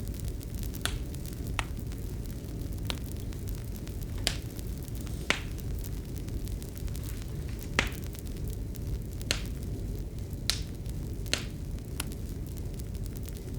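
Wood fire crackling: sharp pops snap at irregular intervals, about ten of them, over a steady low rumble of burning.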